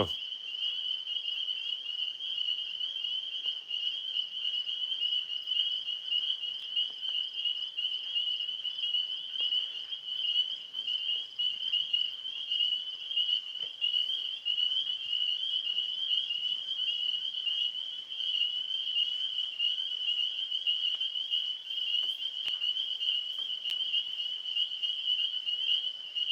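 Nighttime chorus of tree frogs and insects: a steady, high-pitched pulsing trill that keeps on without a break.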